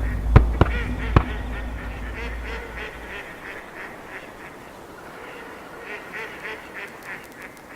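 Three shotgun shots in quick succession in the first second or so, followed by a run of repeated duck quacks.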